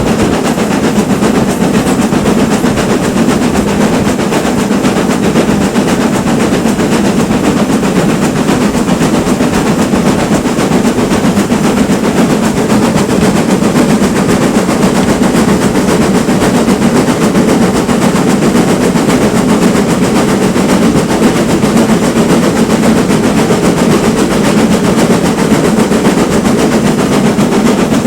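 A steam train hauled by a GWR Manor-class locomotive running: a loud, steady, rapid clatter that does not let up.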